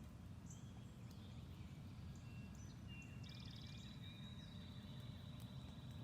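Small songbirds singing faintly: scattered high chirps and whistled notes, with a fast buzzy trill about three seconds in. A low steady rumble runs underneath.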